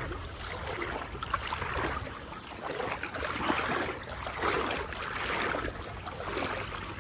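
Water sloshing and swishing around legs in waders wading through knee-deep floodwater, one surge with each stride, about one a second.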